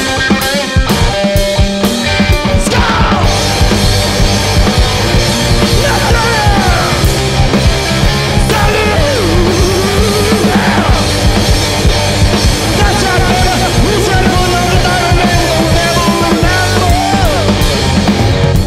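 Live garage-rock band playing: a drum kit keeps a steady beat under an electric guitar lead whose notes bend and slide up and down.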